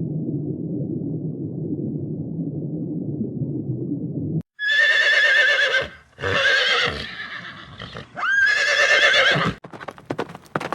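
A steady low rumbling for about four seconds, then a horse whinnies three times in loud, quavering, high-pitched calls, followed near the end by hooves clip-clopping.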